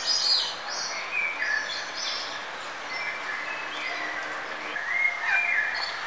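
Birds calling in short, high chirps with quick pitch glides, several in a row, the loudest near the start and again about five seconds in, over a steady faint outdoor hiss.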